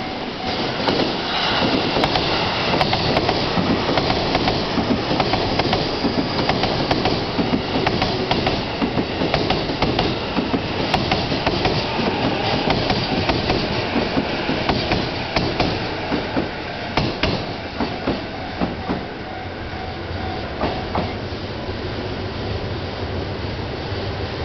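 Chuo Line commuter electric train running past on the tracks, its wheels clattering over the rail joints in quick clicks. The clatter dies down near the end, leaving a steadier rumble.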